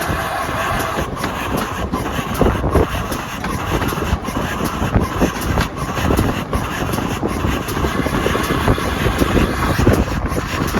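A railway train running, with a steady loud rumble and irregular knocks.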